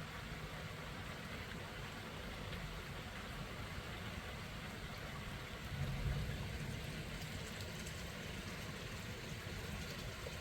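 Steady rain falling, with a brief low rumble about six seconds in.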